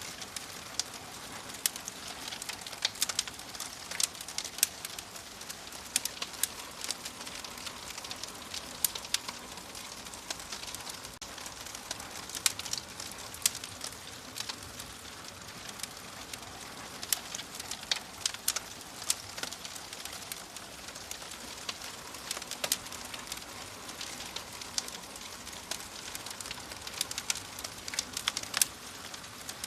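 Wood fire in a fireplace crackling, with frequent irregular sharp pops and snaps over a steady soft hiss.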